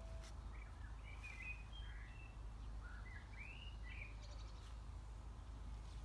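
Faint garden birds chirping, a few short notes scattered through the first two-thirds, over a steady low background rumble.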